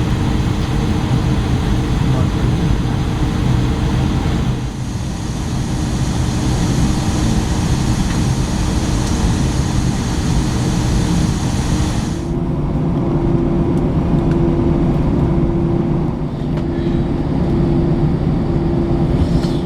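Airbus A321 cabin noise on the ground: a steady hum with a rushing hiss of air. About twelve seconds in the hiss drops away and a low hum starts pulsing on and off roughly once a second.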